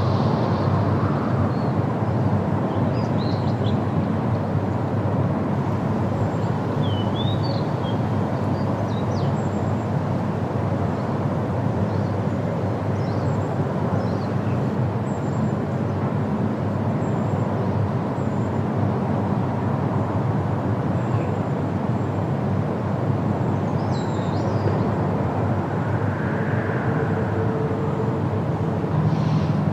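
Steady wind rushing through forest trees and leaves, with a few faint, brief bird chirps scattered through it.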